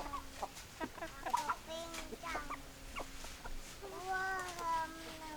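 Chickens clucking, several short calls in quick succession, then one longer drawn-out call about four seconds in.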